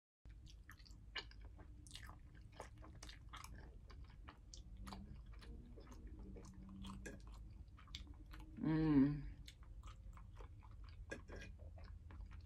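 Close-up chewing and mouth sounds of a person eating spaghetti and fried food: a steady run of wet clicks and smacks. About nine seconds in comes one brief voiced hum.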